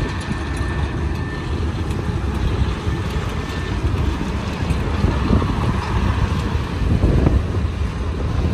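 Norfolk Southern freight train rolling past close by: a steady low rumble of wheels on the rails, with a faint thin high squeal over the first few seconds.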